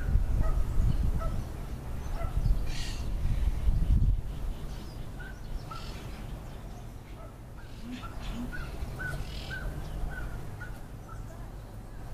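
Birds giving short, repeated calls, a note or two at a time and more often in the second half, over a low rumble that is strongest in the first few seconds.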